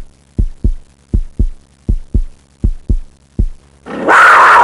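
Heartbeat sound effect: paired low thumps repeating about every three-quarters of a second. Near the end it is cut off by a loud roar-like animal sound.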